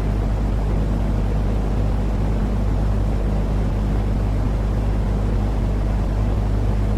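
Continuous baby-sleep noise track: a steady, unchanging low rumbling hiss with a constant low hum underneath.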